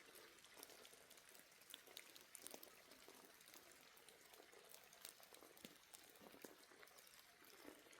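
Faint bubbling of a cooking pot simmering, with many small pops scattered throughout.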